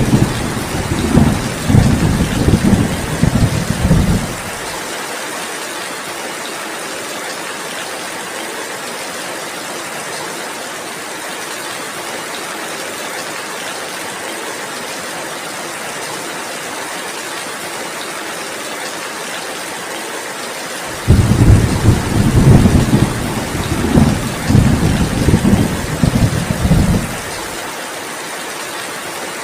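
Heavy rain falling steadily, with low rolling thunder rumbling for the first four seconds or so and again for about six seconds starting some 21 seconds in.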